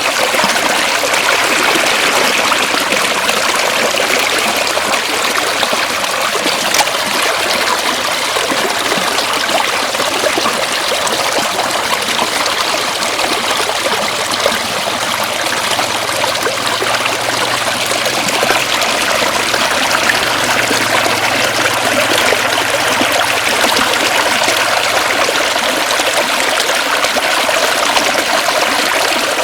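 Floodwater running steadily, an even, continuous rush of water.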